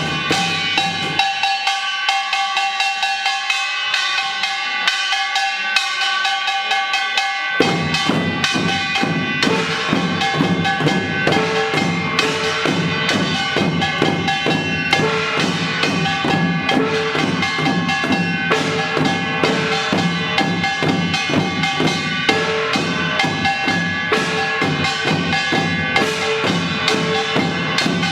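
Samulnori ensemble playing Korean percussion in a fast, dense rhythm: small gongs (kkwaenggwari) clanging with ringing tones over janggu and buk drums. A little after the start the drums drop out, leaving only the gongs, and come back in after about eight seconds.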